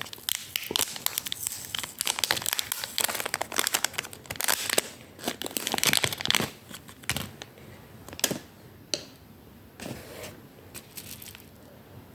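Packaging crinkling and rustling as a small DCC sound decoder is taken out of it. The crackling is dense for most of the first seven seconds, then thins to a few scattered clicks.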